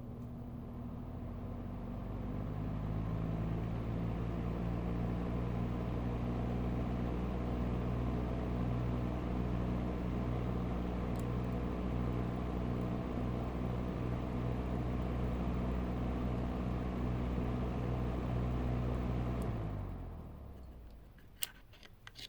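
Old Mitsubishi ES-25HB front-motor ventilation fan running with a steady motor hum; its bearings have been sprayed with KURE 5-56 and it turns smoothly. About twenty seconds in the hum falls in pitch and dies away as the fan stops, followed by a few sharp clicks.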